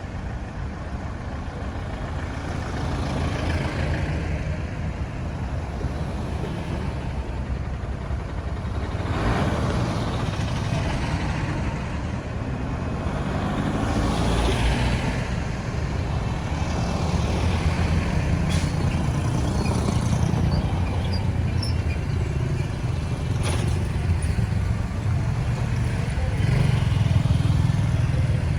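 Busy road traffic: a vehicle engine running steadily under constant road noise, with other vehicles swishing past twice, about ten and fifteen seconds in.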